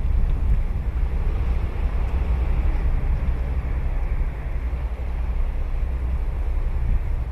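Ocean waves breaking and washing onto the beach, a steady low rumble of surf.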